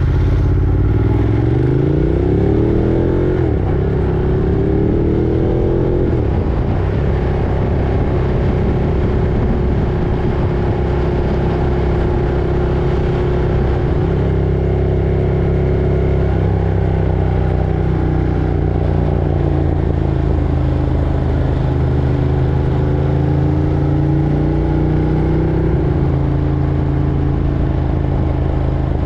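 Ducati Monster 1200's L-twin engine accelerating, its pitch climbing through one gear, dropping at a shift and climbing again in the first several seconds, then holding a steady cruise with small changes in speed. Heavy low rumble runs under it throughout.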